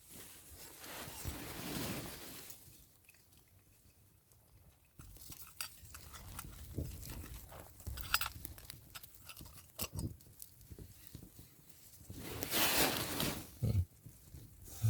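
Tarp shelter rustling and crackling in the wind, with two gusts of wind noise, one at the start and one near the end, and irregular crackles in between.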